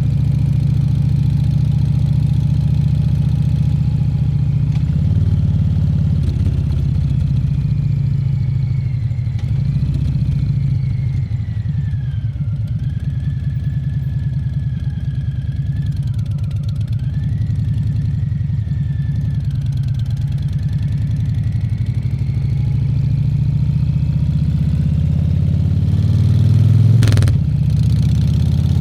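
Harley-Davidson Fat Bob 114's Milwaukee-Eight 114 V-twin running with a steady low rumble. A faint whine dips and rises in pitch midway, and near the end a couple of sharp clicks come as the engine note gets louder.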